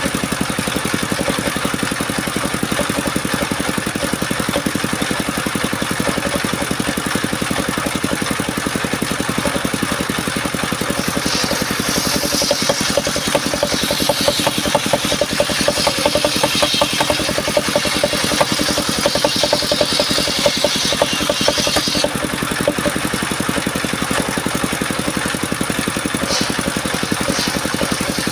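Engine of a mobile circular sawmill running steadily. For about ten seconds in the middle, a harsh high-pitched hiss joins it as the blade cuts through mahogany timber.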